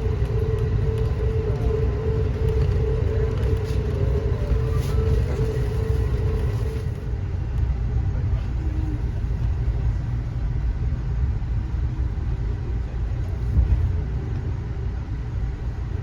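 Passenger train running, heard from inside the coach: a steady low rumble, with a wavering hum that stops about seven seconds in and a brief thump near the end.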